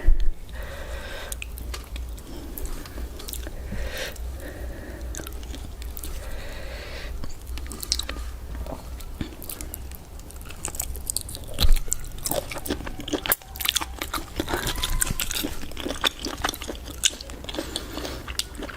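A person chewing and biting into octopus close to the microphone, with many small crunchy clicks. There is a louder knock at the very start and another about two-thirds of the way through.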